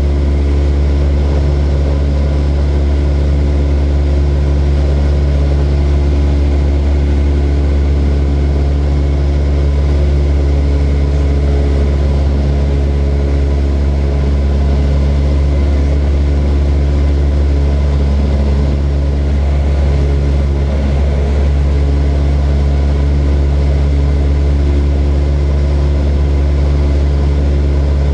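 Small propeller aircraft's engine running at a steady, unchanging pitch: a constant low drone.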